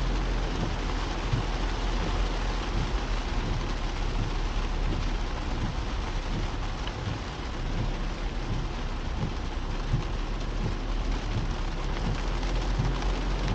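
Steady rain falling on a moving car, with a constant low rumble underneath.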